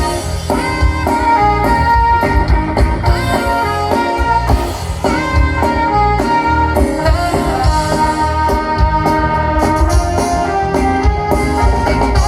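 Tejano band playing an instrumental break between sung verses: a melody line over steady bass and drums, with no singing.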